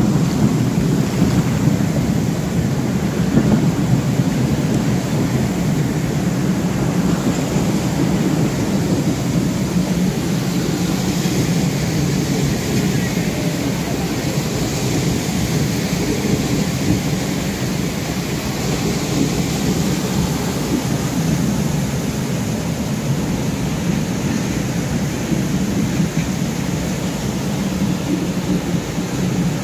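Passenger train rolling through floodwater over the tracks, its wheels and undercarriage churning and splashing the water: a steady low rumble mixed with rushing water.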